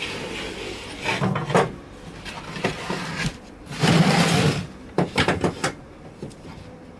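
Plywood pieces and tools handled on a workbench: three short bursts of scraping slides and knocks, about a second in, around four seconds, and just after five seconds.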